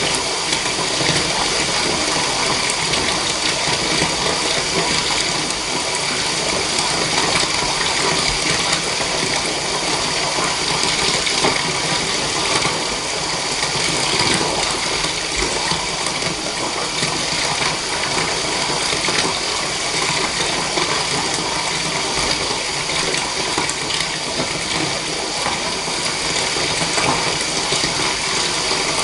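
Water running steadily from a tap into a bathtub, an even rushing hiss that does not change.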